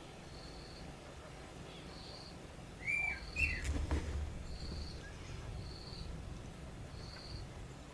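Birds calling in the bush: a short, high note repeats about once a second throughout, and two quick arched chirps come about three seconds in. A brief low thump and rumble follows just after the chirps.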